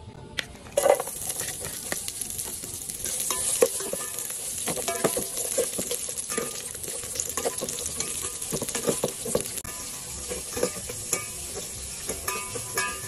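Sliced lemongrass and aromatics hitting hot oil in an aluminium pot and sizzling from about a second in. A metal ladle scrapes and clinks against the pot as they are stirred.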